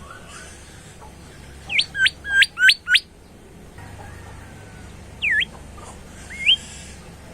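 Golden whistler singing: a quick run of four loud whistled notes, each sweeping sharply in pitch, then one dipping-and-rising note and a short rising whistle later on. Faint twittering runs underneath.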